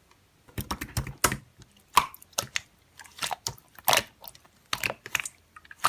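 Slime being squeezed and poked by hand, making irregular sticky clicks and small crackling pops.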